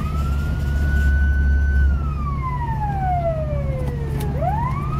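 Fire engine siren wailing: it holds a high pitch, slides slowly down for about two and a half seconds, then sweeps quickly back up near the end. The truck's engine runs steadily beneath it.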